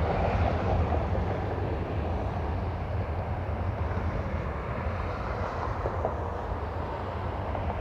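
Jet airliner engines at an airport, a steady rumble that slowly fades.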